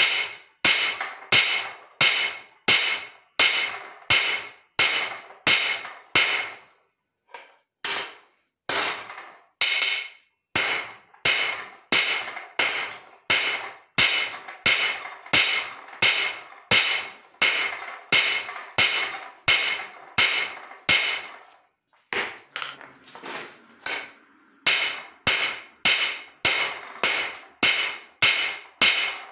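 Hand hammer striking steel on an anvil in a steady rhythm of about two blows a second, each blow ringing. There is a short pause about seven seconds in, and a stretch of lighter, uneven taps a little after two-thirds of the way through.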